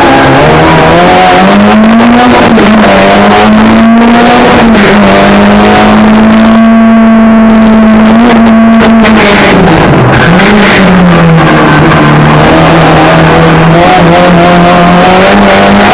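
Competition car's engine heard loudly from inside the cabin under hard driving. The revs drop right at the start and again about ten seconds in, climb back each time, and are held steady at high revs for a few seconds in the middle, over road noise and cabin rattles.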